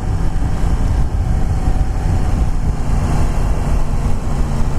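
Yamaha FZ-10's crossplane inline-four engine running at a steady cruise, with wind rushing over the microphone.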